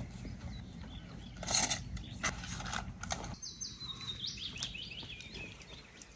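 Clicking and rattling of gear being handled, with a loud rustle about a second and a half in, over a low rumble. From about halfway a songbird sings a run of quick repeated notes that step down in pitch.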